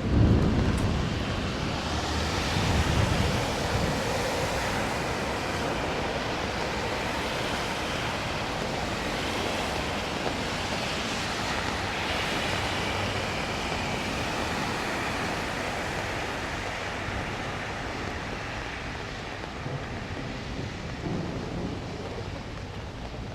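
Heavy rain falling steadily, with a low rumble of thunder in the first few seconds that dies away into the hiss of the rain, which eases slightly toward the end.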